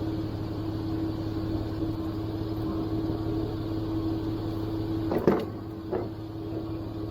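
A vehicle engine idling steadily with an even hum, while two metallic clanks sound about five seconds in, a sharp one and then a smaller one, as jumper cables are being hooked to a battery.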